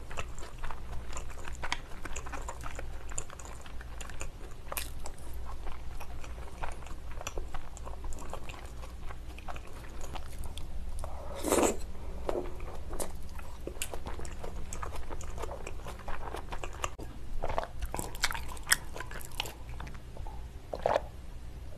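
Close-miked eating sounds: wet chewing and lip-smacking of salmon sashimi on rice, with small clicks, a louder mouth sound about halfway through, and a swallow from a drink near the end.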